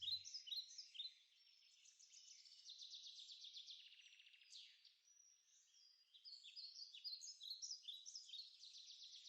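Faint chorus of songbirds: many quick chirps, trills and short whistled notes overlapping, thinning out for a moment near the middle.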